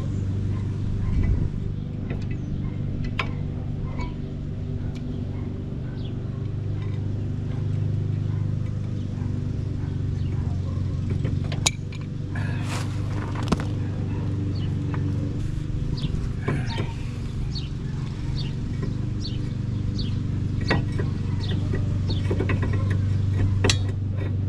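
A steady low machine hum runs throughout, with scattered sharp metallic clicks and clinks of hand tools working on a brake assembly, more frequent in the second half.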